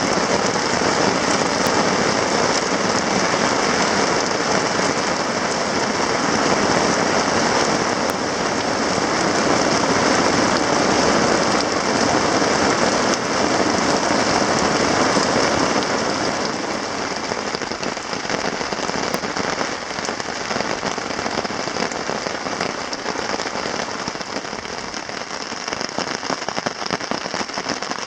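Steady rain falling, a dense even hiss of drops that eases somewhat a little past halfway.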